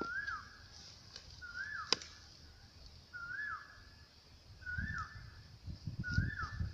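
A bird repeating the same short whistled call about every second and a half, five times; each note rises, holds briefly and drops. A single sharp click about two seconds in, and soft low thuds in the second half.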